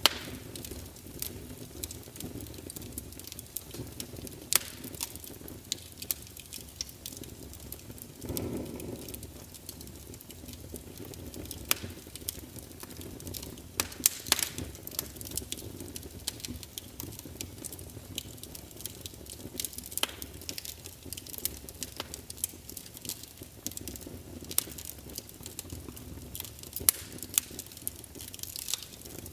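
Wood fire crackling: frequent sharp pops and snaps over a steady low hiss of burning, with a brief louder surge about eight seconds in.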